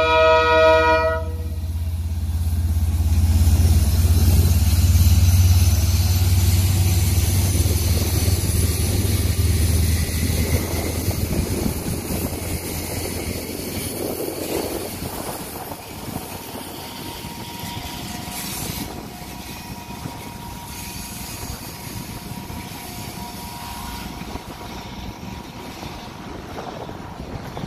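KiwiRail DL-class diesel-electric locomotive's horn cuts off about a second in. Its engine then runs loudly as it passes. After that comes the steady rumble and clatter of container wagons rolling by, growing gradually quieter, with a faint steady squeal from the wheels in the second half.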